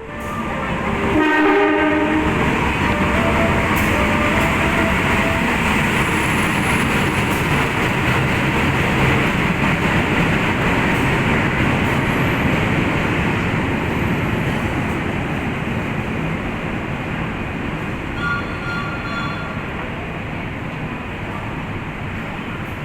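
Train horn blasting loudly about a second in, then the train running by with a steady loud rumble of wheels on rails that slowly fades. A brief higher tone sounds near the end.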